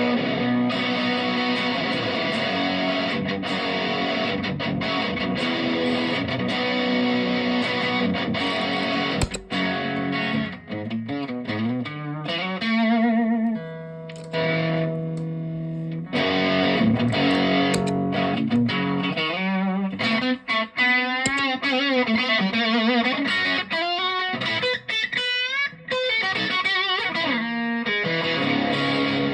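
Electric guitar with P90 pickups, played through a Behringer Centaur overdrive pedal into a valve combo amp. It starts with held, overdriven chords, then moves to single-note lead lines with bends and vibrato in the second half.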